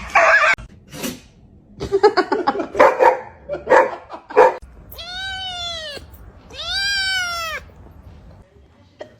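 A cat meowing: two long drawn-out meows, each rising then falling in pitch, about five and seven seconds in, after a run of short calls.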